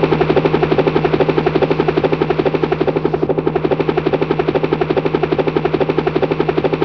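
Helicopter rotor sound, a rapid even chopping beat over a steady low hum, from the toy helicopter's run. It starts and cuts off abruptly.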